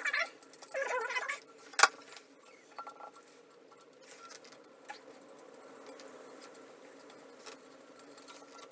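Hand tools squeaking and scraping against a toilet's rusted tank bolts in two short spells, then one sharp click a little under two seconds in. Faint scattered taps follow over a steady hum.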